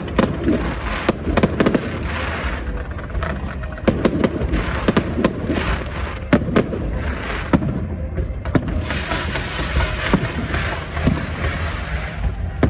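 Aerial fireworks display: a rapid, irregular string of sharp bangs from shells bursting, with a dense stretch of crackling hiss from about nine seconds in to near the end.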